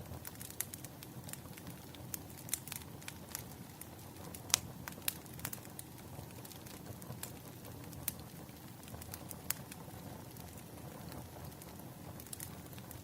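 Wood fire crackling: irregular sharp pops and snaps, one louder pop about four and a half seconds in, over a steady low rumble.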